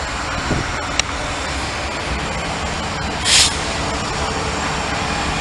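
Freight train rolling past with a steady rumble and wheel noise, and a short hiss about three seconds in.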